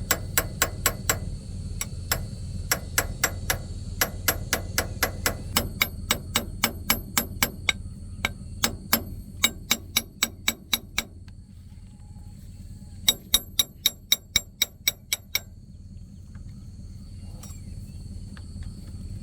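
Hammer blows on metal in quick runs of about four to five strikes a second, pausing about eleven seconds in, then a shorter run a couple of seconds later.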